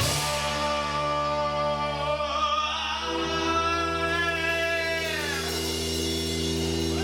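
A rock band playing with singing, held notes over a steady bass; a long high note slides downward about five seconds in.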